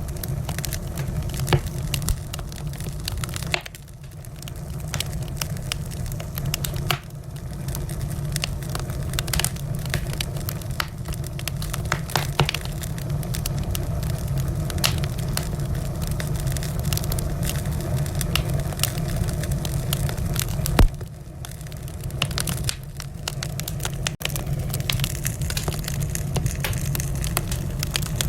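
Wood fire in a fireplace crackling, with many small snaps and pops over a steady low rush of flame. There is one sharp pop about 21 seconds in.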